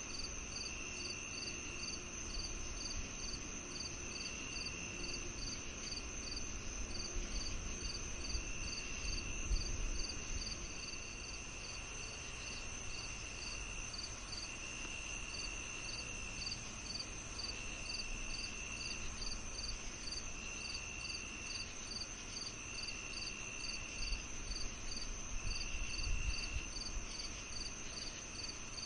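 A chorus of crickets on a summer evening, several kinds at once. There is a steady high drone, regular chirps about two a second, and lower trills that come and go every second or two. A faint low rumble swells briefly twice, about a third of the way in and near the end.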